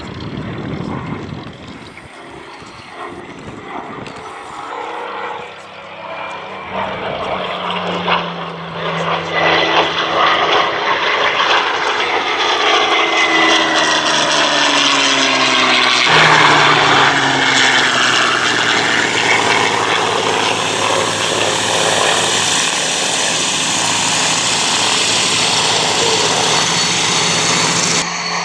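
Merlin-powered Supermarine Seafire's Rolls-Royce Merlin V12 piston engine flying past. It grows louder over the first ten seconds or so, and the engine note slides in pitch as the aircraft passes and turns.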